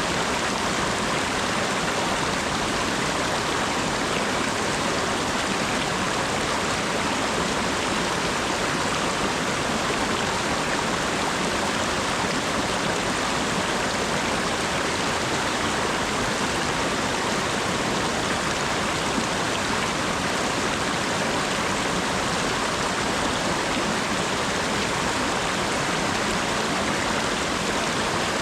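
Steady rain falling, an even hiss of water with no break or change in level.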